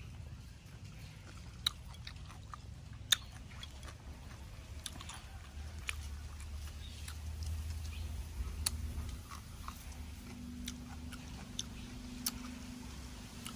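A person chewing a mouthful of shrimp and cucumber salad, with scattered sharp crunches and mouth clicks, the strongest about two and three seconds in.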